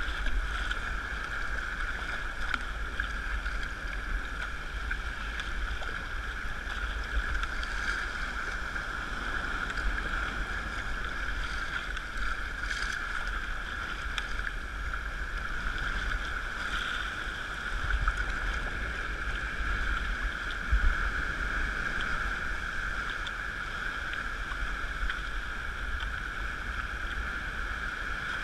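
Sea kayak moving through water: a steady rush of water with low wind rumble and a few faint knocks.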